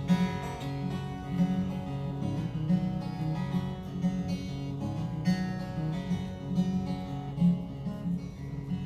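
Acoustic guitar strummed in a steady rhythm, an instrumental passage between sung lines of a country song.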